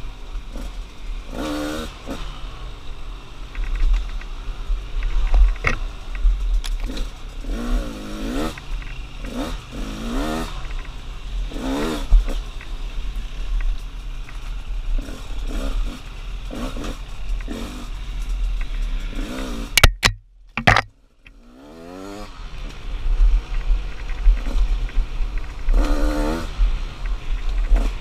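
2016 KTM 200 XCW two-stroke dirt bike engine revving up and down with the throttle as it is ridden, over a steady low rumble, with a few sharp knocks. About twenty seconds in the sound cuts out for about a second, then the revs climb again.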